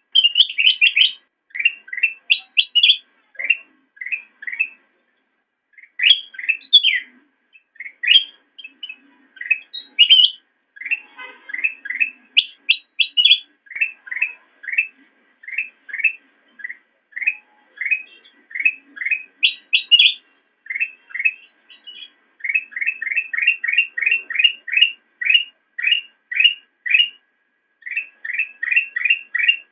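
Kutilang emas (a bulbul) singing a long run of short, quick chirping notes, about two to three a second, coming faster and closer together in the second half.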